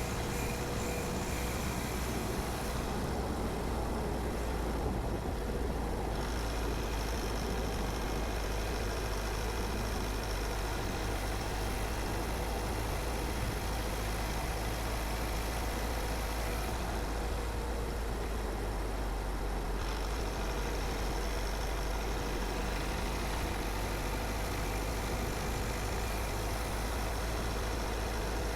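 Car driving at a steady speed: even tyre and road noise over a low engine rumble.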